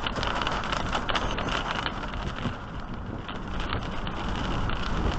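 Thunderstorm wind gusting on the microphone with a steady low rumble, mixed with a constant stream of small sharp impacts from falling rain and hail.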